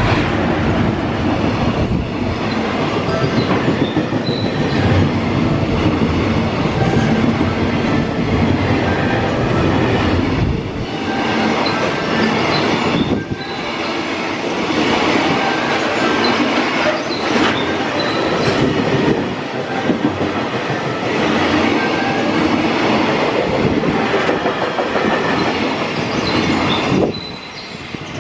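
Freight train wagons rolling past, the wheels clattering over rail joints with short, high squeals from the wheels now and then. The sound drops away sharply about a second before the end.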